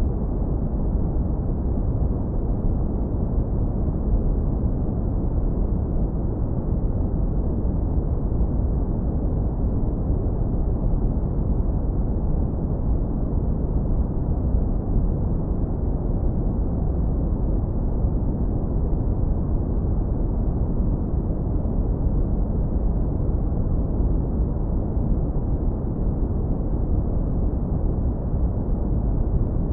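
Brown noise, hard low-pass filtered: a continuous, even, deep rumbling hiss with the energy in the low end and nothing in the highs.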